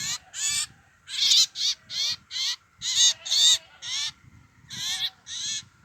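A bird giving a rapid series of short, harsh, raspy calls, about two a second, with a pause near the end.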